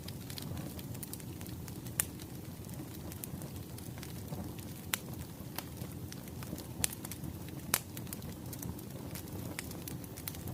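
Wood fire crackling, with a low steady rumble and several sharp pops scattered through it.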